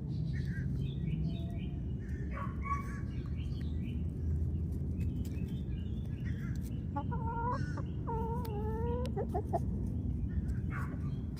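Backyard chickens clucking, with short scattered calls and a longer, wavering drawn-out call about seven seconds in, over a steady low rumble.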